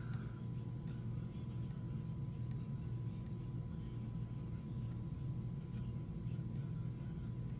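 Steady low background hum with a faint, thin steady tone above it; no distinct event.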